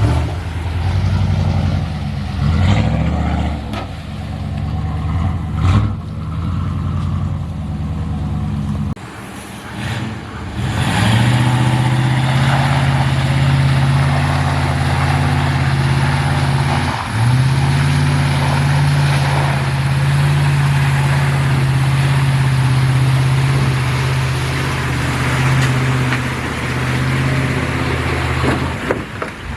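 Off-road vehicle engine running hard, holding a steady pitch for long stretches, with a drop about nine seconds in and a brief dip about seventeen seconds in.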